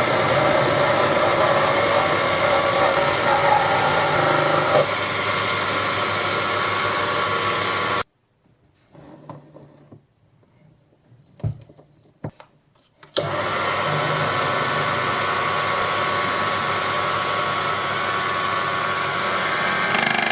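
Proxxon PD 250/E mini lathe running, its motor and gear train whining steadily while it turns a steel shaft. The sound cuts off suddenly about 8 s in, leaving a few seconds of near quiet with a couple of faint clicks, then the lathe runs again from about 13 s.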